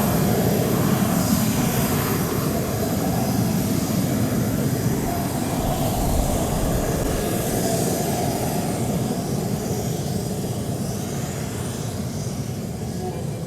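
Jet aircraft engine noise: a steady rush that slowly fades away.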